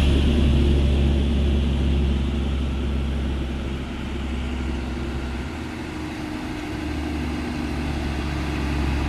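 Heavy diesel truck engine running with a steady low drone, fading over the first few seconds and then swelling slightly again.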